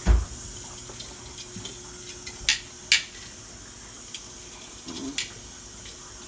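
A spoon knocking and clinking against a pot of spaghetti while stirring: a dull thump at the start, then scattered sharp clinks.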